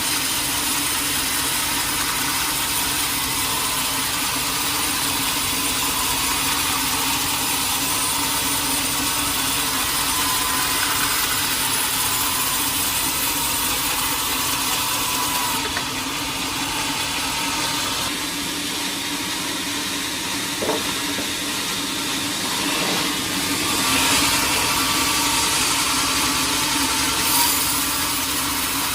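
Sawmill saw running and cutting a teak log: a steady machine noise with a constant low hum under a broad hiss. A little past the middle the hiss thins and the rumble drops, then it grows slightly louder again near the end.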